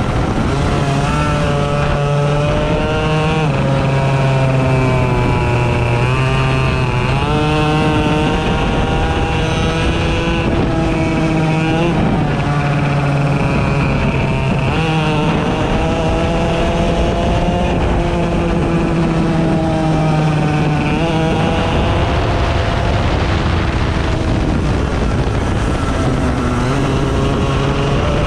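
A 100cc racing engine being driven hard, its pitch climbing as it accelerates and then dropping sharply as it backs off, over and over, as on laps of a circuit.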